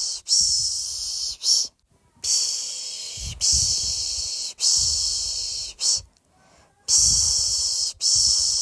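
A person shushing a baby to sleep with long 'shh' sounds of about a second each. They come in runs of three, each ending with a quick short 'sh', with a brief pause between runs.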